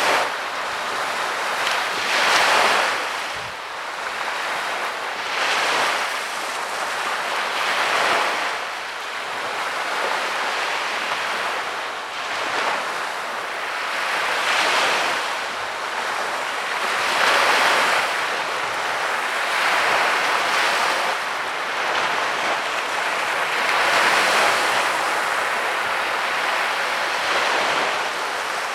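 Small sea waves breaking and washing up on a beach, each wave a swell of surf every two to three seconds.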